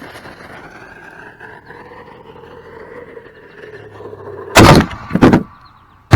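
A steady rushing sound with a slowly falling tone, then two loud, sharp bangs about half a second apart, and another sudden bang at the very end.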